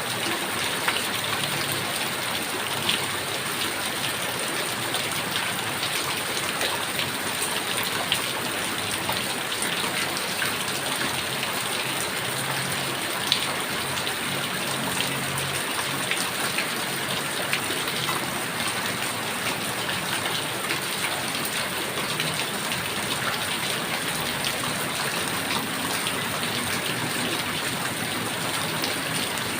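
Heavy rain falling steadily, a dense hiss of rain with many individual drops ticking on a surface and now and then a louder single drop.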